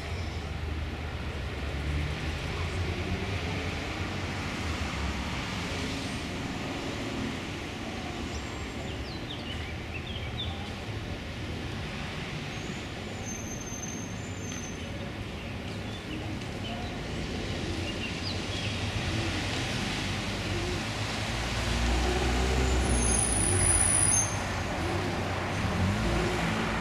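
Steady low engine rumble and road noise of a motor vehicle, growing louder in the second half.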